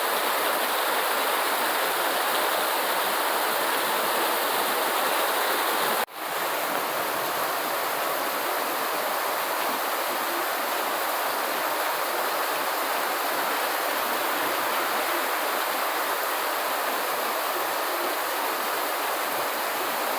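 Steady rainfall, an even hiss of falling water, with one brief drop-out about six seconds in where the sound cuts and returns.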